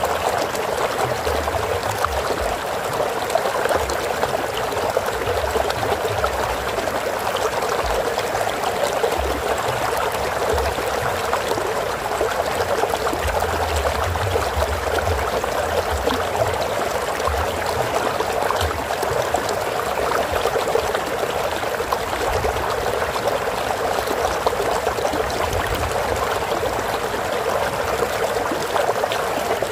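Stream water flowing steadily, an even rush with an irregular low rumble underneath.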